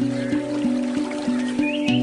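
Handpan played in a steady run of soft, ringing notes, about three a second, over a faint flowing stream. Short bird chirps come in near the end.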